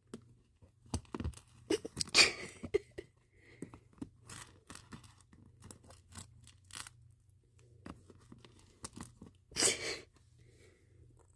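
Small spilled beads clicking and rattling as they are gathered up by hand, with two louder rattling bursts about two seconds in and near the end.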